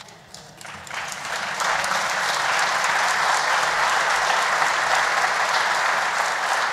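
Audience applauding, building up over the first second or so and then holding steady.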